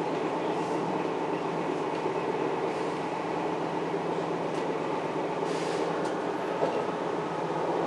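Steady hum and rumble of an SNCF B 84500 (Bombardier AGC) regional train heard from inside the carriage, with a few faint clicks and a brief hiss about five to six seconds in.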